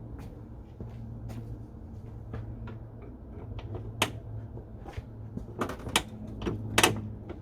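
Irregular clicks and knocks of hand work on the car, a dozen or so sharp strikes, loudest about four seconds in and in a cluster near the end, over a steady low hum.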